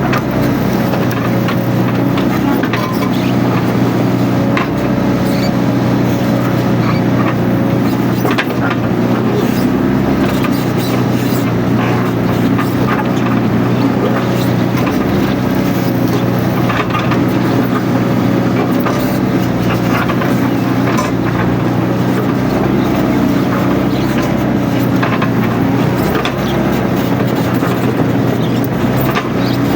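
Mini excavator's diesel engine running steadily, with a faint wavering whine above it and scattered clicks and knocks.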